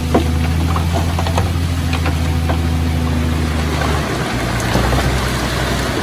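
Heavy diesel construction machine's engine running steadily, with scattered metallic clanks and rattles. About four seconds in, the engine note drops and changes.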